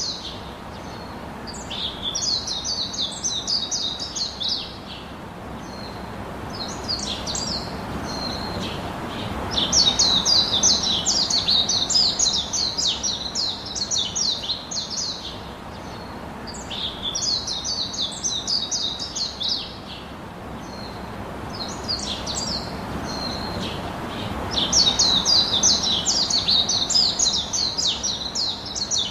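Small birds chirping and twittering in rapid high bouts of a few seconds each, with short pauses between them, over a faint background hiss.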